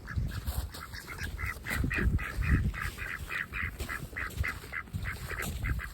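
A group of domestic ducks calling in a rapid run of short quacks, about four or five a second, over a low rumble.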